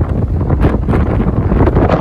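Strong wind buffeting the microphone: a loud, low rumbling roar that surges in gusts.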